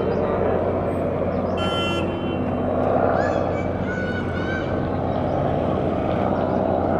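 Road traffic noise, a steady rumble of engines, with a vehicle horn honking once briefly about a second and a half in.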